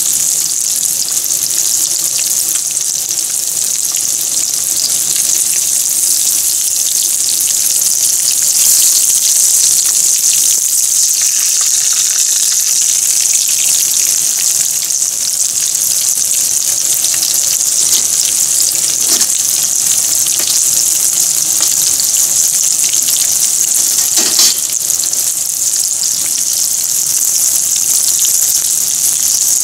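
Breaded cutlets shallow-frying in hot oil in a frying pan: a loud, steady sizzle with dense crackling. A couple of brief knocks, one about two-thirds of the way through and one a few seconds later.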